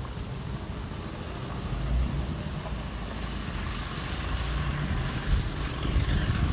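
Exhaust of a petrol Suzuki Grand Vitara 4WD running with a steady low rumble. It swells louder a few times near the end.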